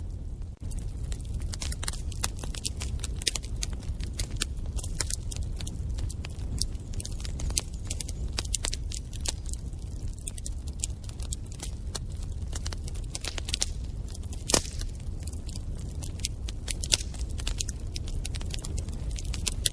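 Wood fire burning in a fireplace: a steady low rumble of flames under frequent sharp crackles and snaps, with one louder pop about three quarters of the way through.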